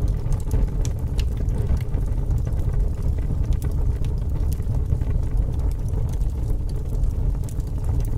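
Fire crackling: a steady low rumble of flames with scattered sharp pops and snaps throughout.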